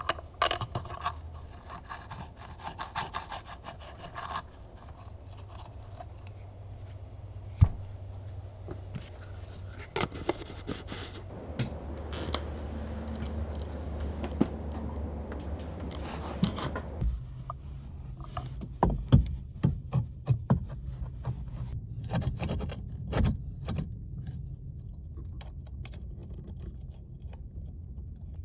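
Hand tools working on a car: scattered metallic clicks and knocks, with a stretch of scraping and rubbing in the middle, over a steady low hum. The sound changes abruptly partway through, followed by clusters of sharp clicks.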